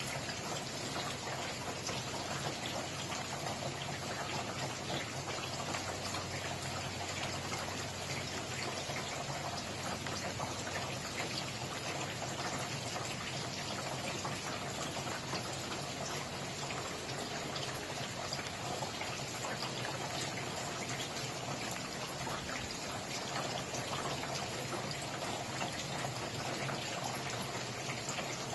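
Steady rain falling, with a dense patter of individual drops over an even hiss.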